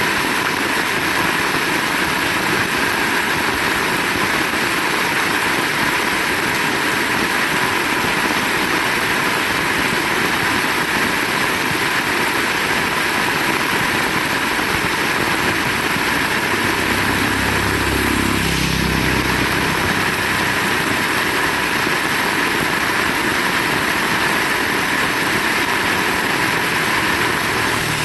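Heavy rain falling steadily. About seventeen seconds in, a low rumble with a falling pitch swells and fades over a few seconds.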